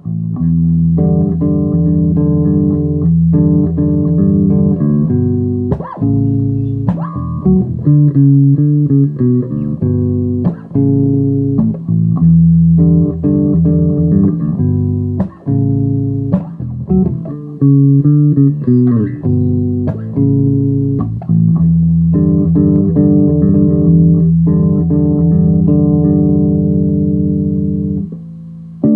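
Guitar played without singing, plucked notes and chords ringing on in a low, full register.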